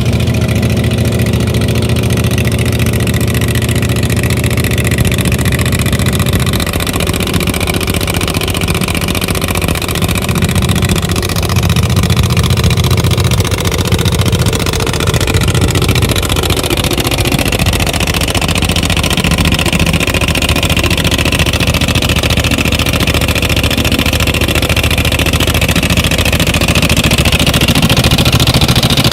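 Large wood chipper's engine running steadily. In the second half it grows a little louder and a higher whine comes in.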